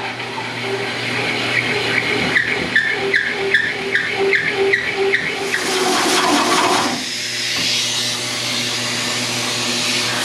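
3-inch hole saw cutting through aluminum plate, turning at about 175 RPM, over a steady motor hum. For the first five seconds or so a squealing chirp repeats about three times a second; about six to seven seconds in, the cut changes to a steadier hiss.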